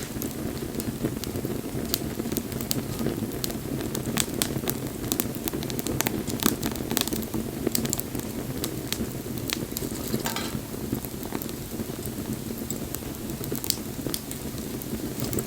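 Wood bonfire crackling, with many sharp irregular pops over a steady low rushing noise.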